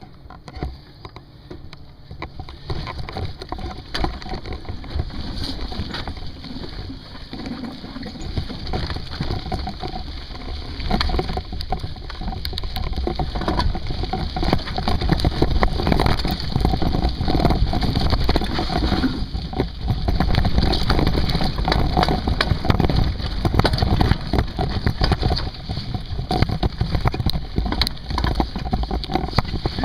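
Wind rushing over the microphone of a moving mountain bike, with knocks and rattles from the bike, growing louder over the first half as speed builds, then staying loud.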